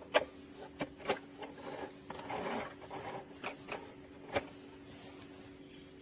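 A few light clicks and knocks with some rubbing and rustling, consistent with a mini sewing machine and its fabric being handled while the machine is at rest, over a faint steady hum.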